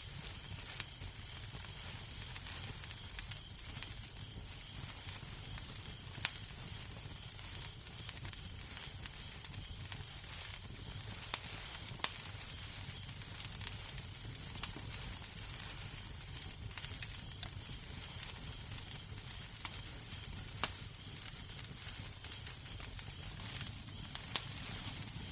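Wood fire in a fireplace crackling steadily: a constant soft hiss and low rumble with irregular sharp snaps and a few louder pops.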